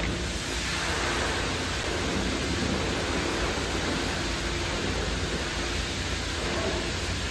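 High-pressure washer wand spraying water onto a car, a steady dense hiss.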